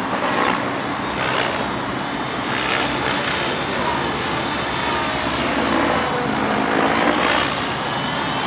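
Align T-Rex 700E electric RC helicopter in flight: steady rotor rush under a high electric motor and gear whine that rises and falls in pitch, swelling most about six seconds in.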